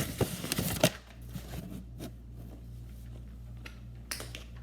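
Metal tap shoes clicking on the floor: a quick run of sharp taps in the first second, the loudest just before one second in, then a few fainter taps, over a steady low hum.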